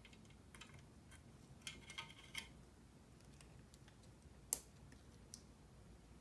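Sparse small clicks and taps from mechanical keyboard parts being handled during assembly: a quick cluster of clicks about two seconds in and one sharper click about four and a half seconds in.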